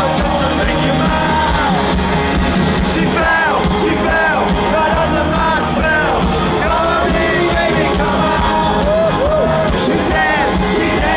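Loud live rock music with singing, and people yelling along.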